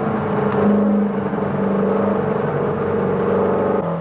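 A rally car's engine running hard at steady high revs, its note dropping near the end as the revs fall.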